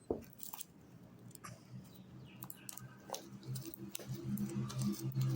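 Sticky slime being squeezed and pulled in the hands, making many small wet clicks and pops. A low hum comes in about halfway and grows louder near the end.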